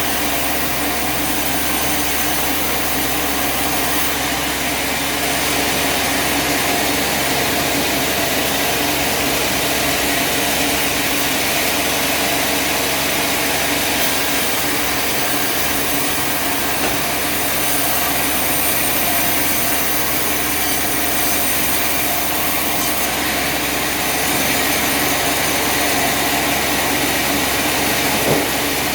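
Sawmill machinery running steadily, a constant mechanical drone with a strong high hiss, and a brief knock near the end.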